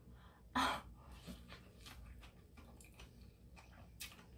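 A person biting into a fresh rice-paper spring roll and chewing it: soft, irregular chewing sounds, loudest just over half a second in.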